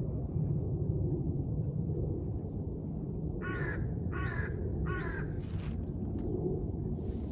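A bird giving four harsh calls in a quick series, about 0.7 s apart, over a steady low rumble.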